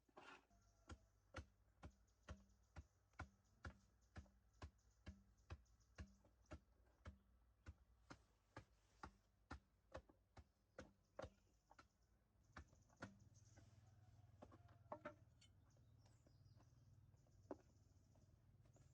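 Repeated blows of a hand tool at a steady pace of a little more than two a second, as in chopping or hammering during construction. After about twelve seconds the strikes thin out to a few scattered ones, and a low rumble comes in.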